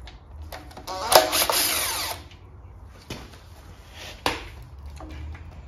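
Cordless power tool with a 1/2-inch socket spinning out a fuel pump bolt on a Holden grey motor. It runs for about a second and a half, then there are two sharp knocks about a second apart.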